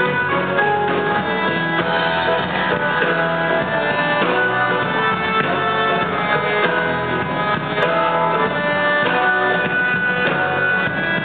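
Live rock band playing an instrumental passage of a song, guitar to the fore over drums, with long held notes.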